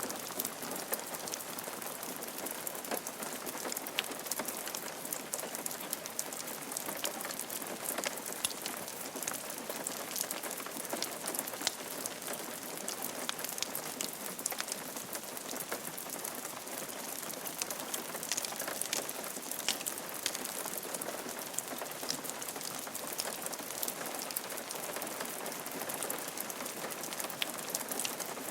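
Steady rain falling on a roof, with many individual drops ticking sharply over a continuous patter.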